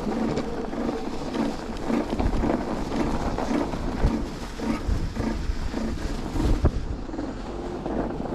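Wind buffeting the microphone while riding an electric bike, with a rhythmic rubbing noise from the wheel repeating about twice a second and a few low thumps. The rider suspects a delaminated brake pad rubbing the disc, or a failing bearing in the hub motor.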